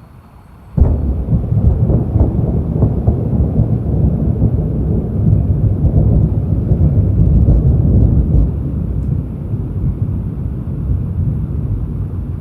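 Thunder in a tropical storm: a sudden crack about a second in, then a long, low rumble that slowly eases.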